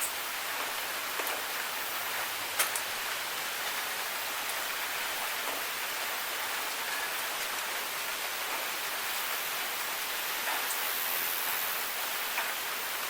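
Steady rain falling, an even hiss with a few sharp drip clicks, the loudest about two and a half seconds in.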